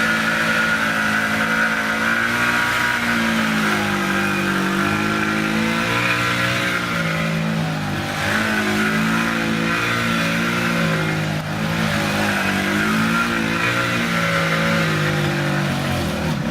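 Motor scooter's small petrol engine running as it warms up, its pitch rising and falling a little.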